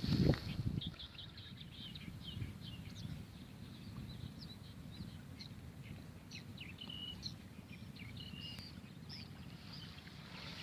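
Small birds chirping and twittering in many short, high calls, over a steady low outdoor rumble.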